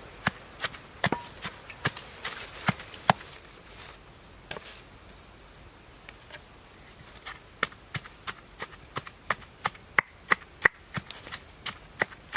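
Knife chopping on a wooden board: a steady run of sharp strokes, about two to three a second. The strokes pause for a few seconds in the middle, then resume a little faster.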